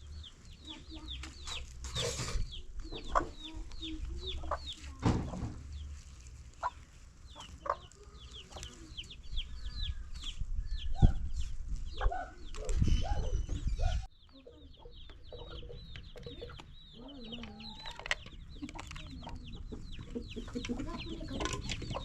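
Domestic chickens clucking, with many short, high, falling peeps repeated several times a second. There is low rumble and scattered knocks underneath, and the sound changes abruptly about two-thirds of the way through.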